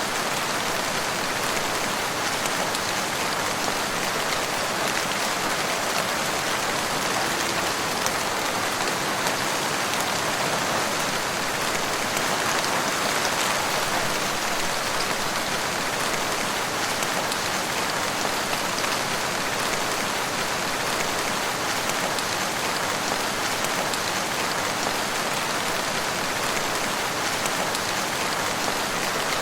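Steady rain falling in woodland, an even hiss of drops on leaves and ground with no change in strength.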